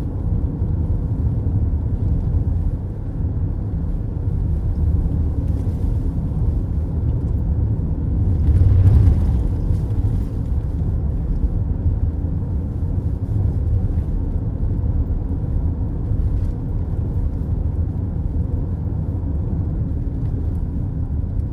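Steady low rumble of tyres and engine heard from inside a car cruising on the highway, swelling for a second or two about nine seconds in.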